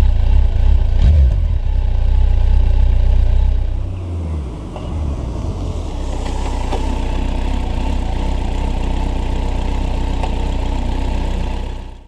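Kawasaki GTR 1400's inline-four engine through its stock exhaust, running loud with a brief swell about a second in. About four seconds in the pitch falls and it settles to a steady, somewhat quieter run, which stops sharply at the end.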